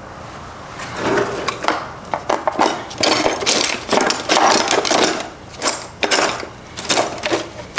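Hand tools working on the metal parts of a Subaru six-speed transmission: irregular rapid clicking, clinking and scraping of metal on metal.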